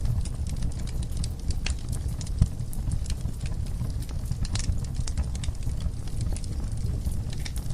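Wood fire burning in a fireplace, crackling with scattered sharp pops over a low steady rumble of flame, with one louder pop about a third of the way in.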